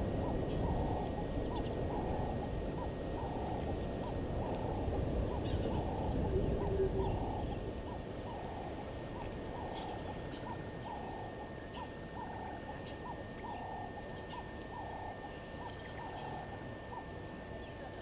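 A bird calling a long, steady series of short, mid-pitched notes, about one and a half a second, over a low rumble that fades after about seven seconds.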